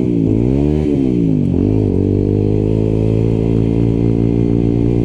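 A 125 cc motorcycle engine being ridden. Its revs drop and climb twice in quick succession in the first second and a half, then hold steady at cruising speed.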